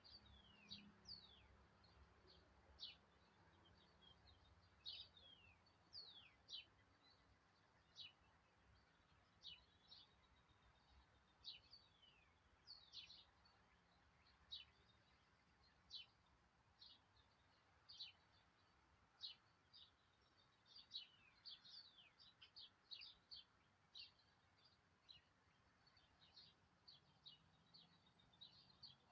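Faint, high thin bird chirps, many short notes sliding downward, repeating irregularly about once or twice a second.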